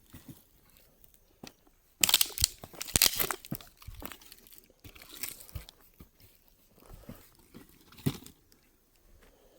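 Crunching and crackling of dry twigs and leaf litter, in a dense burst about two seconds in, then scattered crunches until a last loud one near the end.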